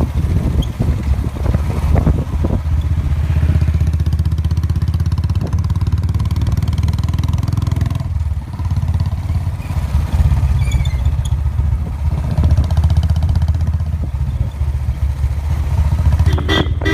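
Royal Enfield Bullet's single-cylinder engine running steadily under way, with a slight dip in level about halfway through.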